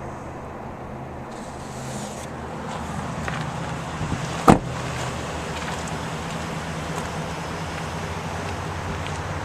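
Pickup truck engine running steadily with a low hum under road or wind noise, and one sharp click about halfway through.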